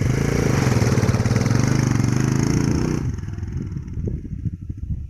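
Small motorcycle engine held at high revs for about three seconds, then dropping back to a lumpy, pulsing idle.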